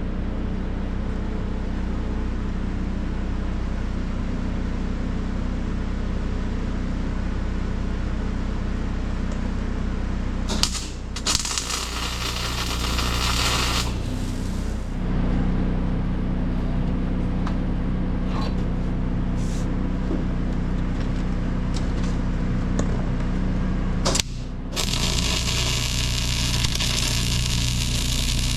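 Arc welding on a dozer blade's cylinder bracket: the arc crackles and hisses in two runs of about three seconds each, about eleven seconds in and again near the end, over the steady hum of a running engine.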